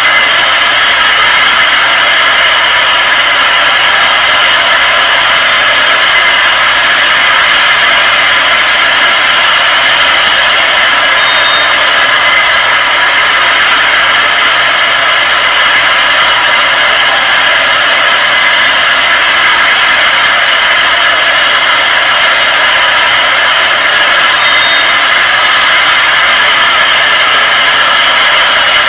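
Loud, steady, unbroken hissing noise with no distinct events.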